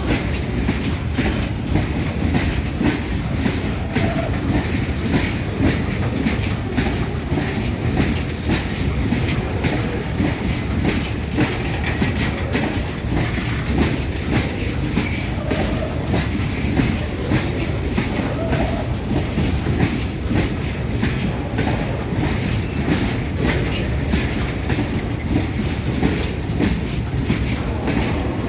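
Indian Railways goods train rolling steadily, its wagon wheels clacking over the rail joints in a continuous rumble.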